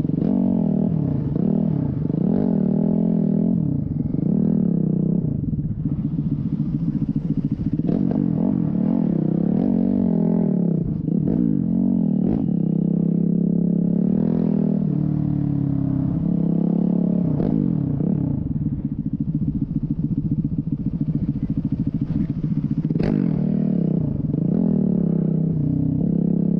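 Dirt bike engine running as it is ridden, its pitch rising and falling over and over with throttle and gear changes.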